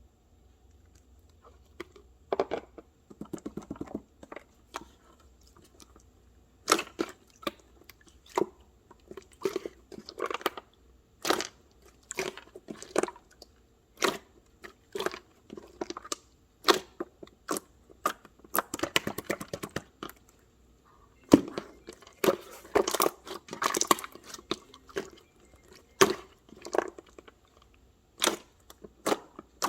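Corn kernels being bitten and chewed: crisp crunches and cracks, about one a second, with tearing and chewing between, busier in clusters later on.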